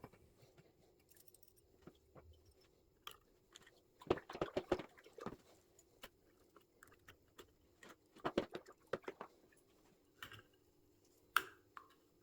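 Small metal hardware being handled, with short bursts of clinking and rattling about four seconds in and again about eight seconds in, and a single sharp click near the end.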